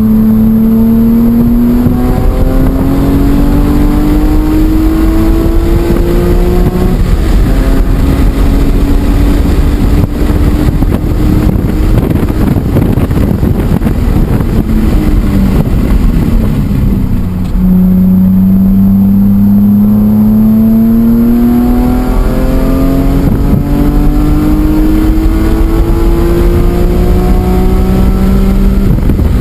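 BMW E46 M3's naturally aspirated inline-six under hard acceleration, its note rising through the revs with quick gear changes. In the middle it eases off and the pitch drops for a few seconds, then it pulls hard again with the note rising steadily to the end.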